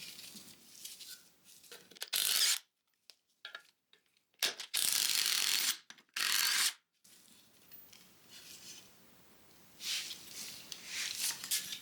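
Ratchet wrench clicking in several short bursts while turning out bolts, with fainter scraping of metal parts near the end.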